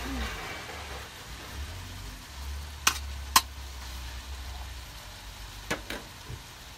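Chunks of bacon frying in a stainless steel pan, a steady sizzle. A metal utensil clicks sharply against the pan twice about three seconds in, and twice more, lighter, near the end.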